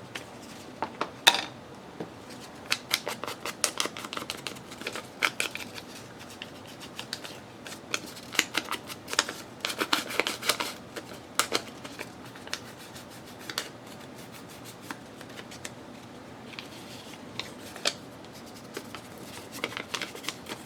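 Paper and card being handled on a craft table: irregular rustling, sliding and small clicks in scattered bursts, with a quieter stretch a little past the middle.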